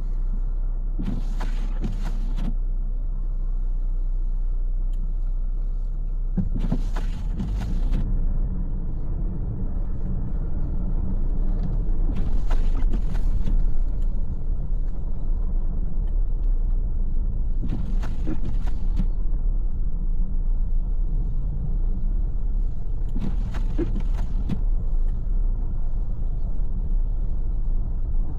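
Car driving, a steady low rumble of engine and road noise. A short noisy sound comes back at regular intervals, about every five to six seconds.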